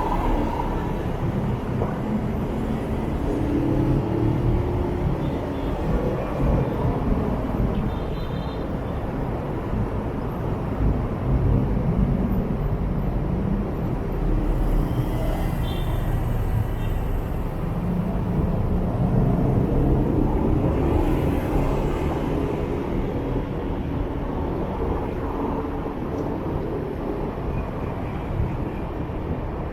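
Motorbike riding in city traffic: the engine's pitch rises and falls as it speeds up and slows, over steady low road and wind noise.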